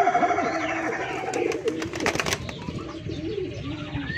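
Many domestic pigeons cooing at once, overlapping low rising-and-falling coos. A higher bird call trails off in the first second, and a few sharp clatters sound around the middle.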